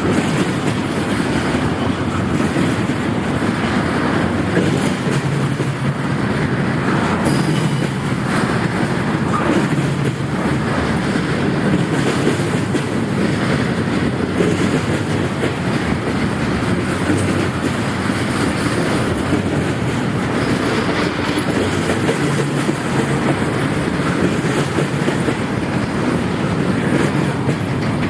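Freight train cars rolling past, wheels clicking steadily over the rail joints with a continuous rumble.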